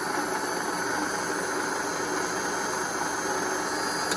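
Ramsey 12,000 lb worm-gear winch running under 12-volt power: a steady electric motor and gear drive hum with a thin, high whine over it.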